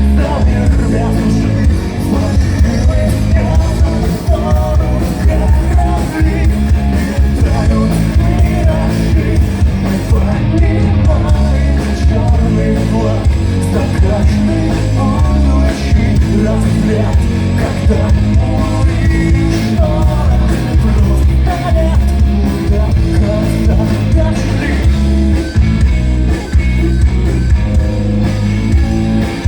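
Rock band playing a song live: singing over electric guitar, bass and drums, loud and continuous.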